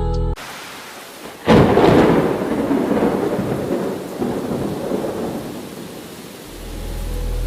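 Steady rain with a thunderclap about a second and a half in: a sudden loud crack that rolls off into rumbling and fades over several seconds.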